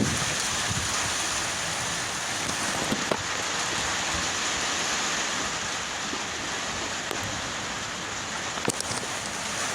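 Steady rain falling on surfaces, an even hiss, with a couple of faint taps.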